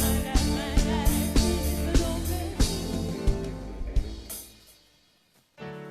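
Backing band playing a reggae rhythm on drum kit and bass, then fading out about four seconds in. After a brief gap, a keyboard starts holding sustained chords near the end.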